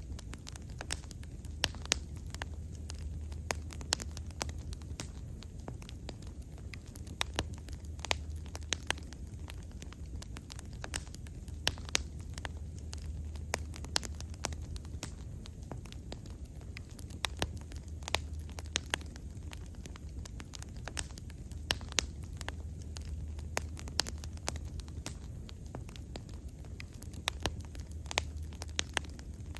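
Wood bonfire crackling, with frequent sharp irregular pops and snaps over a low steady rumble.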